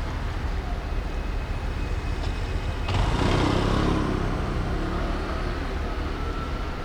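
City street traffic: a steady low rumble of vehicles and tyres, with a louder vehicle passing close by about three seconds in.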